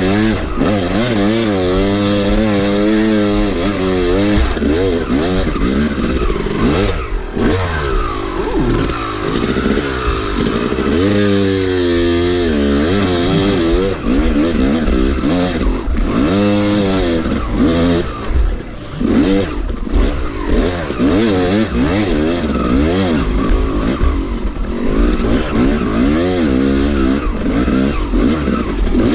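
Two-stroke dirt bike engine being ridden up a hill under load, its revs rising and falling again and again as the throttle is worked.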